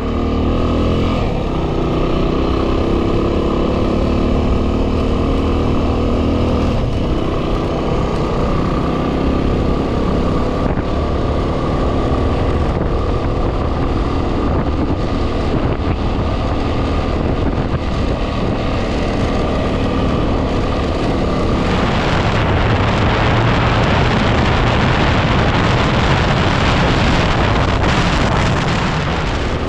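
2010 Yamaha WR250R's single-cylinder four-stroke engine running under way, its pitch climbing as it revs up over the first several seconds, with wind buffeting the microphone. About two-thirds of the way through, the rushing wind noise grows louder and covers more of the sound.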